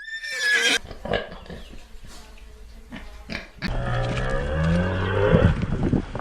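A cow mooing: one long, low moo that bends in pitch, starting a little over halfway through. Before it, a short high call that falls in pitch and a few knocks.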